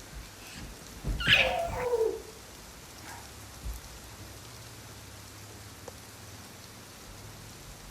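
Steady rain, with a monkey's short high cry about a second in that slides down in pitch.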